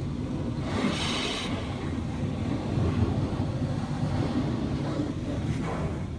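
Car wash noise: a steady low rumble of machinery, with a brief hiss about a second in and fainter hisses near the end.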